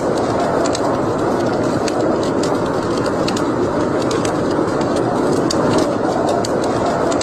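Wood fire burning in a fireplace: a steady rushing hiss of flames with frequent sharp, irregular crackles and pops from the burning wood.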